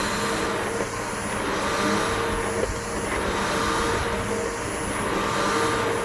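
Bissell BigGreen PowerForce upright vacuum cleaner running on grass, its motor giving a steady whine over a rush of air that swells and eases slightly every couple of seconds.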